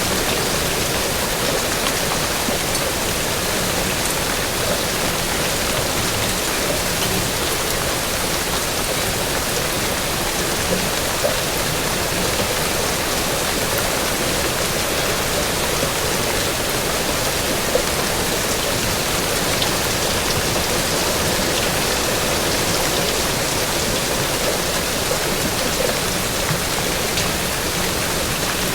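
Steady rain falling, a continuous even hiss with scattered drops.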